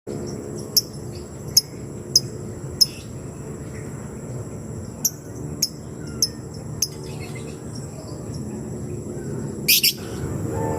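Lebet bird giving its 'ngetik' call, short sharp high ticks spaced out one by one, then a quick rattle of ticks near the end; a lure call used to provoke a rival lebet into answering. A steady high whine and a low rumble run beneath it.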